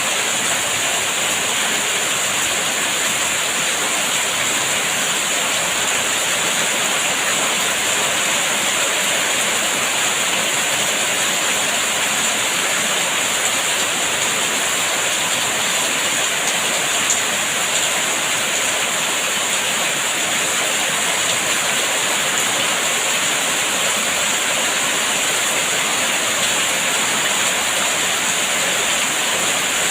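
Rain falling steadily, an even, unbroken hiss with no separate drops or gusts standing out.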